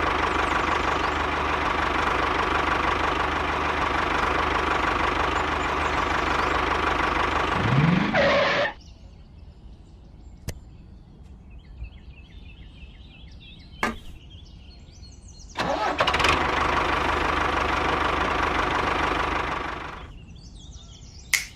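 A small motor runs steadily for about eight seconds, stops abruptly, then runs again for about four and a half seconds before cutting off. A few sharp clicks fall in the quiet stretch between the two runs.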